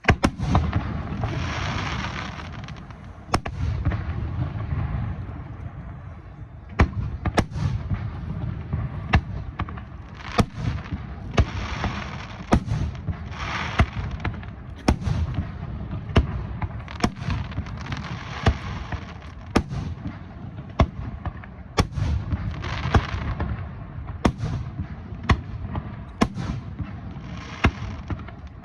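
Star mine fireworks barrage: aerial shells bursting in quick succession, sharp booms often less than a second apart, with recurring stretches of crackling from glittering stars.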